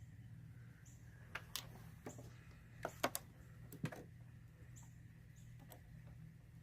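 Scattered small clicks and taps of plastic and rubber parts worked by hand while a rubber grommet is pried off an evap purge valve, over a faint steady hum.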